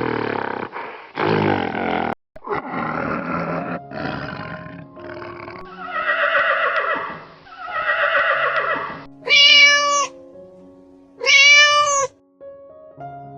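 A run of animal calls: rough, noisy calls through the first half, then two loud drawn-out calls about two seconds apart near the end, over light background music.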